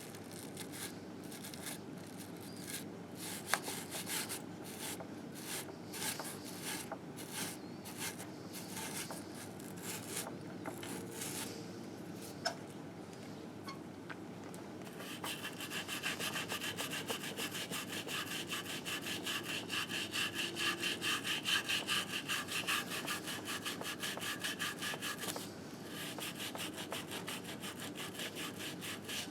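Hand scrubbing of grime off a 1958 Harley-Davidson Sportster engine case. Scattered, uneven strokes come first. About halfway in it settles into fast, steady back-and-forth scrubbing, with a brief pause near the end.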